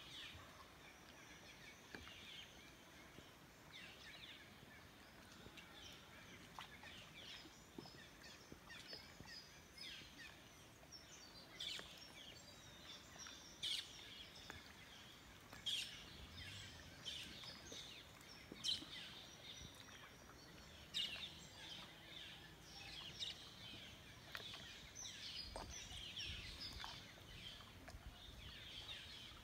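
Birds chirping and calling, with many short high calls throughout and a few sharper, louder calls every couple of seconds through the middle. A faint low rumble comes in near the end.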